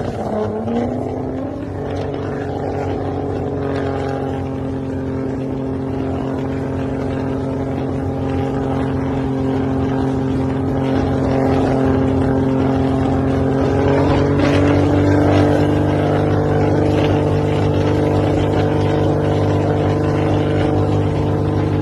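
Nissan GT-R engine and exhaust running steadily at a constant speed, a loud, even drone that rises a little in pitch and loudness about fourteen seconds in.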